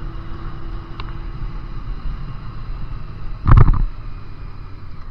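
Road noise on a motorcycle rider's camera: wind buffeting the microphone over vehicle noise, with one short, loud burst about three and a half seconds in.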